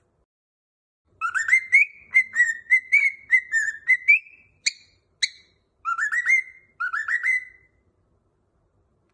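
Cockatiel whistling a quick warbling song phrase of rising whistled notes, with two short sharp chirps in the middle and a second burst of rising whistles after them.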